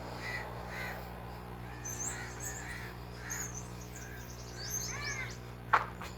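Birds calling: a series of short, repeated arched calls with higher thin chirps among them, and one sharper, louder call near the end, over a steady low hum.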